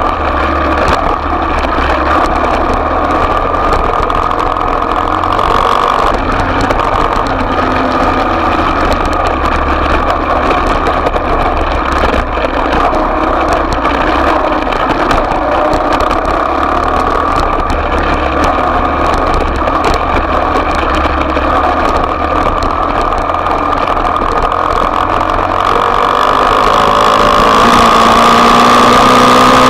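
Small off-road motorcycle engine running steadily at low revs, then rising in pitch and getting louder near the end as it is revved up.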